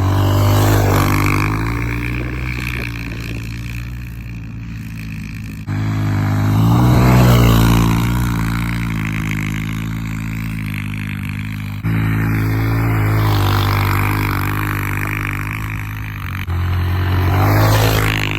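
Small single-cylinder pit bike or mini bike engine running hard under throttle, revving up and down. The sound jumps abruptly every five or six seconds, as the footage cuts between runs.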